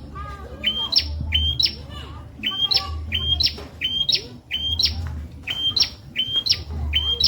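Prenjak (prinia) singing a repeated phrase about once a second. Each phrase is two or three sharp, rising high notes, with a low rumble pulsing underneath.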